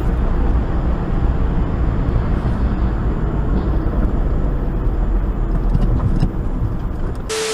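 Steady road and engine noise of a car on the move, heard through a dashcam microphone, with a strong deep rumble and no clear events.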